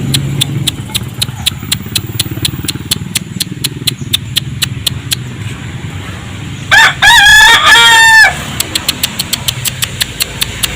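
A rooster crows once, about seven seconds in, a loud call lasting about a second and a half. Under it, a steady fast ticking runs at about four ticks a second over a low hum.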